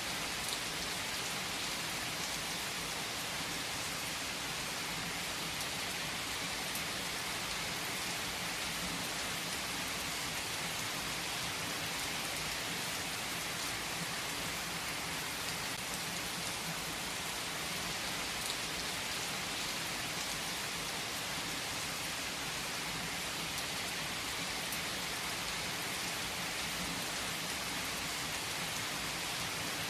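Steady rain falling, an even hiss of many drops on a surface with faint scattered drip ticks.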